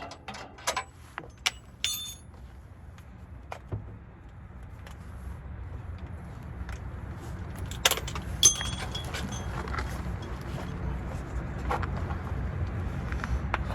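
Metal tools and parts clinking and clattering, with a few ringing metallic strikes about eight seconds in, over a low rumble that grows steadily louder from a few seconds in.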